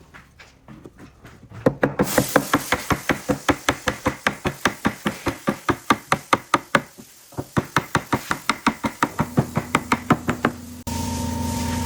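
Rapid, even knocking, about five or six blows a second, in two runs with a short pause between them. Near the end a power tool starts and runs with a steady hum.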